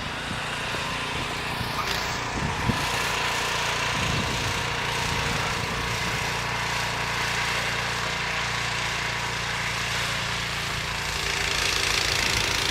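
Small gasoline engine running steadily, a little louder near the end.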